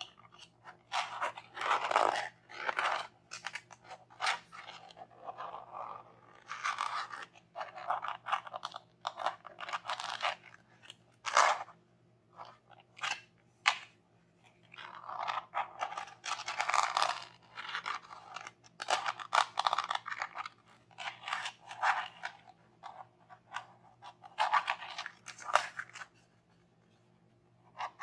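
Hands crunching and scraping toy packaging and toy materials during an unboxing, in irregular crackly bursts with short pauses. It falls quiet about two seconds before the end.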